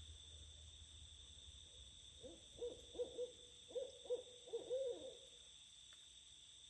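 An owl hooting: a run of about eight low hoots over some three seconds. Crickets trill steadily behind it.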